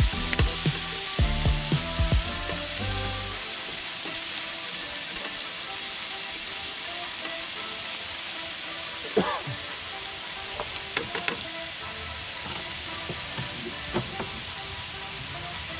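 Food sizzling steadily in a hot pan, with a few knocks and scrapes of a cooking utensil stirring it, midway through and again near the end.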